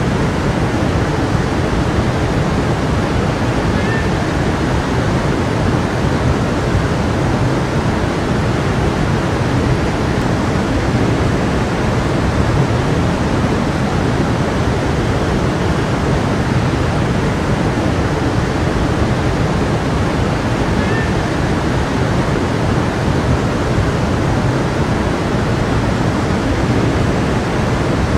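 A stream's water rushing and flowing steadily over rocks, an even, unbroken rush.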